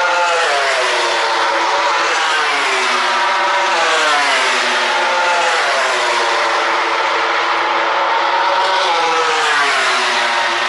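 Several Grand Prix racing motorcycles running at high revs on track, their engine notes overlapping. The pitch drops several times as bikes pass, and climbs again as they accelerate.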